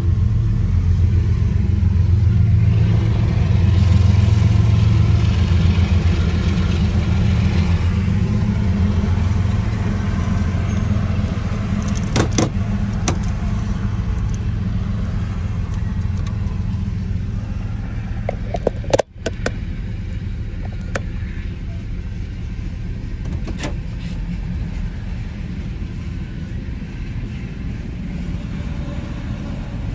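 Union Pacific diesel locomotives rumbling past at close range, then a freight train of tank cars and covered hoppers rolling by with a steady rumble and scattered sharp clicks of wheels on the rails. The sound drops out briefly about two-thirds of the way through.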